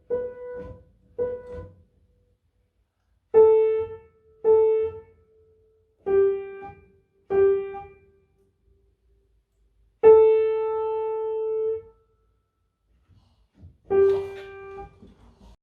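Piano playing a slow, simple melody of separate single notes with pauses between them: a few short notes, then a longer held note about two-thirds of the way through and a final note near the end.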